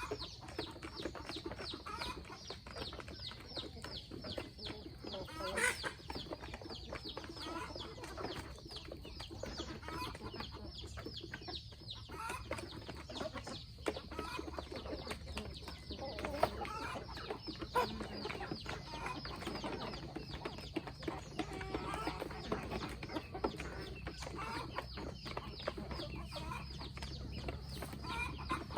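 A flock of chickens clucking, with short calls scattered throughout over a dense run of small quick clicks.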